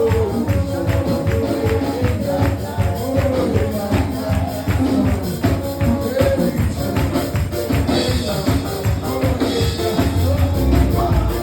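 Gospel music in church: voices and instruments over a steady beat, with a tambourine shaken and struck on the rhythm.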